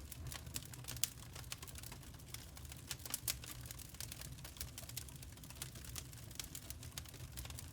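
Crackling wood fire: irregular sharp pops and snaps of varying loudness over a steady low rumble of burning logs.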